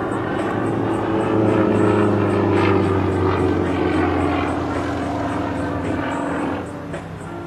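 Su-31 aerobatic plane's nine-cylinder radial engine and propeller running steadily in flight. It swells about a second and a half in, then fades away about six and a half seconds in.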